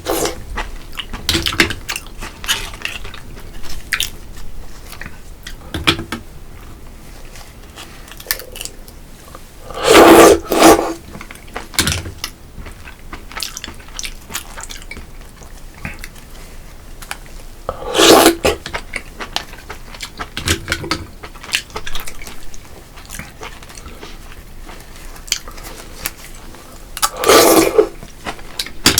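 Close-miked eating of spicy noodle soup and fried pork: chewing with crisp clicks and the clink of utensils on a bowl, broken three times by a loud slurp of about a second, spaced about eight seconds apart.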